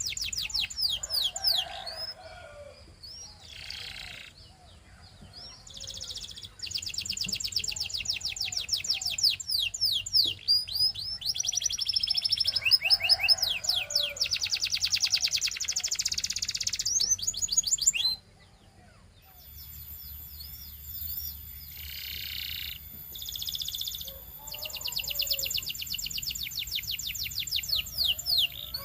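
A canary singing: long rapid trills and rolls of quickly repeated high notes, broken by short pauses and single chirps. About two-thirds of the way in the song stops abruptly and then resumes more quietly.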